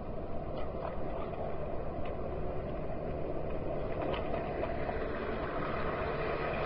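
Waterjet work boat running steadily: a low engine rumble under the rushing noise of its jet, growing a little louder toward the end.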